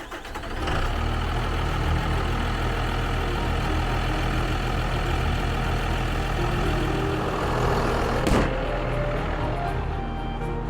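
Dodge Ram 3500's Cummins turbo diesel engine running steadily, freshly restarted after cylinder-head repair, with a brief knock about eight seconds in.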